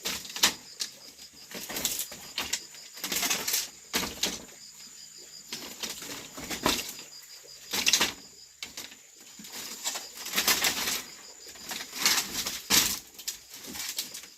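A series of irregular swishing, scraping strokes, roughly one every second, some longer and louder than others.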